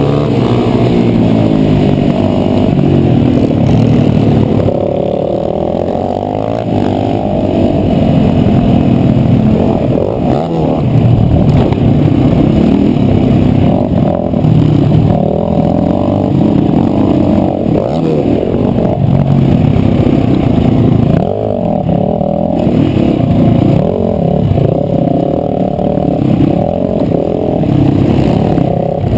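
KTM 525 single-cylinder four-stroke engine heard onboard, revving hard and dropping back again and again as the bike accelerates, shifts and slows through corners.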